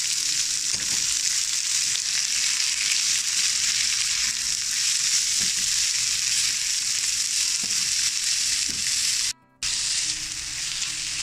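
Chopped mustard greens frying in hot oil in a non-stick wok, a steady sizzle as a spatula stirs them and their leftover water cooks off. The sizzle cuts out for a split second about nine seconds in.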